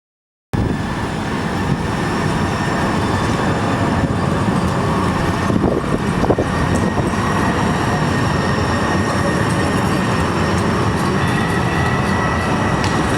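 TriMet train running on the track: a steady rumble with a thin high whine over it and a couple of sharp knocks near the middle. It starts abruptly about half a second in.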